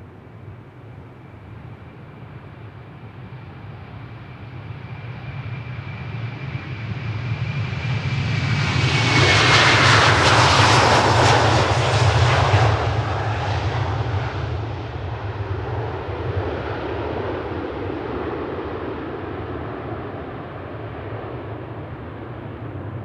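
Airbus A330-300 twin-engine jet on its takeoff run and climb-out at takeoff power: the engine noise swells, peaks about ten seconds in as a whine slides down in pitch while it passes, then settles into a low rumble that slowly fades.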